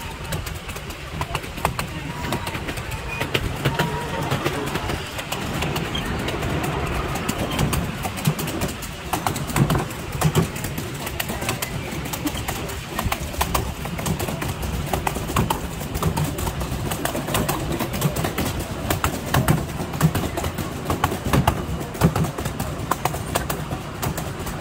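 Miniature steam railway train running along the track, heard from an open passenger carriage: a steady low rumble from the wheels with frequent sharp clicks from the rails.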